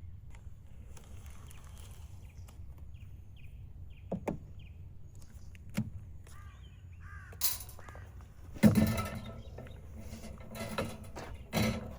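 A few sharp knocks and rustles, the loudest about three-quarters of the way through, with a short run of harsh bird calls a little after halfway.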